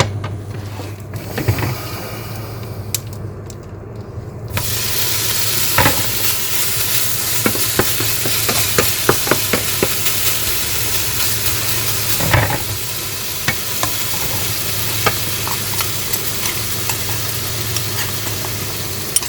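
Seasoned chicken breast pieces frying in a pan, starting to sizzle loudly about four and a half seconds in, with the clicks and knocks of a utensil stirring them against the pan.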